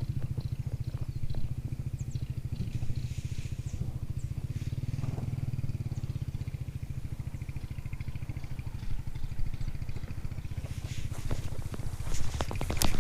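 Motor vehicle engine running steadily with a fast, even low pulse. Sharp clicks and knocks join it near the end.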